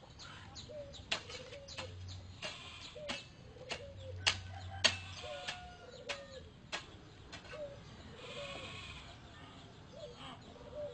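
An animal making a series of short calls, each falling in pitch, mixed with sharp clicks.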